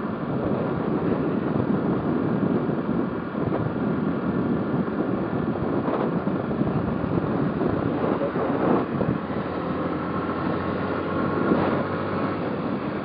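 Motorcycle riding along, its engine running steadily beneath a continuous rush of wind on the microphone.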